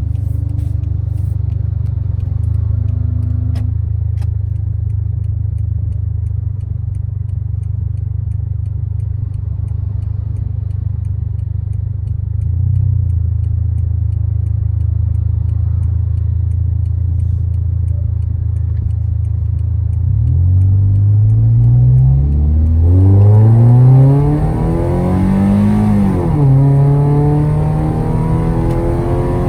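Modified Toyota Vios engine with a straight-pipe exhaust, running on E85. It holds a steady low drone, then about twenty seconds in it accelerates hard: the pitch climbs in three rising sweeps with drops at the gear changes, and it gets louder.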